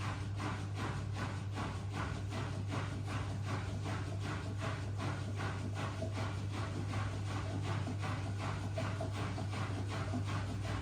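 Miele W1 washing machine running: a steady motor hum under a regular rhythmic knocking of about three beats a second as the drum turns.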